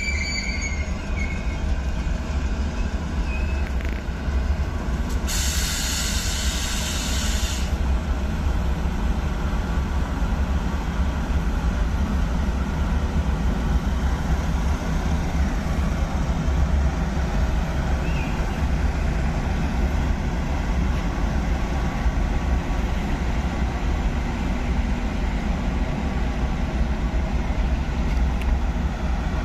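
Train running with a steady heavy rumble. About five seconds in, a hiss sounds for about two seconds.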